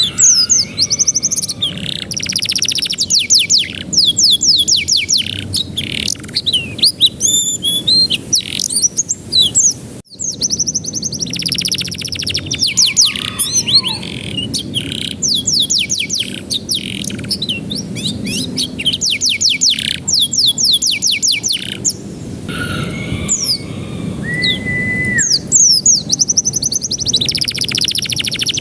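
Domestic canary singing a long, loud song of fast rolling trills and rising and falling whistles, with a held steady whistle a few seconds before the end. It is canary song played as a training 'master' for young canaries to copy.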